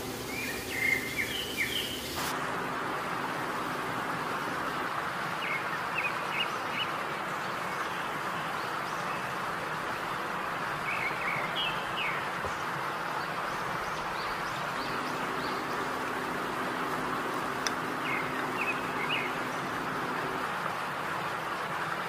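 Short clusters of bird chirps every few seconds over a steady hiss.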